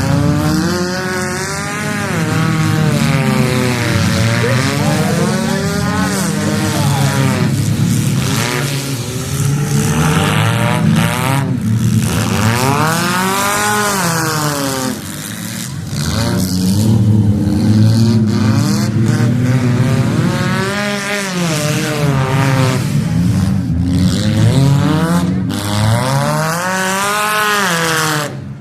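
Several stock-class race car engines revving hard as the cars run laps, the pitch climbing and dropping every couple of seconds as they accelerate and lift. A few sharp knocks are heard along the way.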